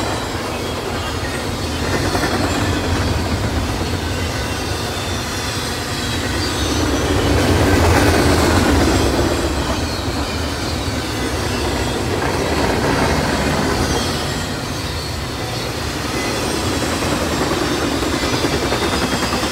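A freight train's intermodal cars, double-stack container well cars and trailers on flatcars, rolling past with a steady rumble and clatter of wheels on rail, swelling louder every few seconds as cars go by, loudest about eight seconds in.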